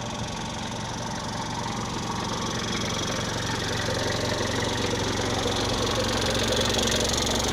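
Diesel truck engine idling steadily, growing gradually louder.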